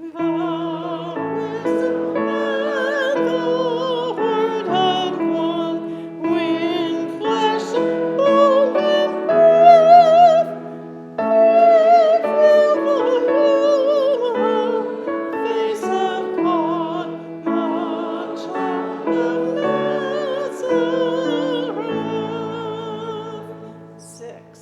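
Congregation singing a hymn with keyboard accompaniment, voices wavering over steady held chords; a short break between lines about eleven seconds in.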